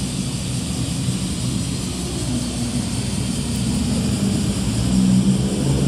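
Modified car's engine and exhaust running at low revs as it rolls by, a steady low drone that grows louder about five seconds in.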